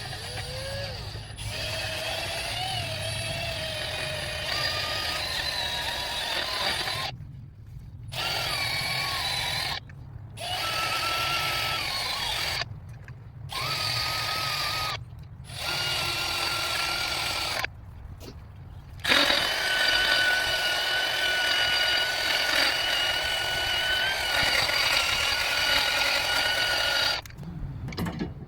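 Handheld power tool whining in about six bursts, starting and stopping with short pauses, its pitch shifting as it works under load, typical of running fasteners in or out during engine work.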